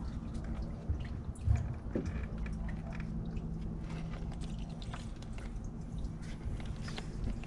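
Rubber upper radiator hose being twisted and pulled off its neck, with squishing, small clicks and coolant dripping, and one louder thump about a second and a half in. A steady low hum runs underneath.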